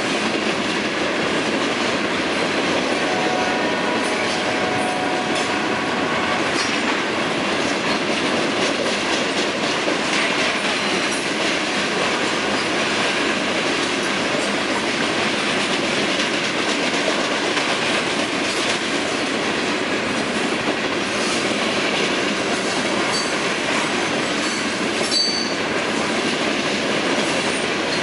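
Freight train of hopper and gondola cars rolling steadily past: a continuous rumble of steel wheels on rail with clicks from the wheels over the joints. A couple of brief high wheel squeals come near the end.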